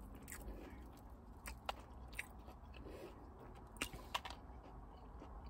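Faint close-up chewing of breaded fried mozzarella sticks, with scattered sharp mouth clicks and small crunches.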